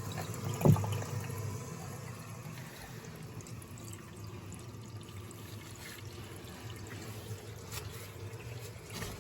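Water running steadily, with a single knock about a second in.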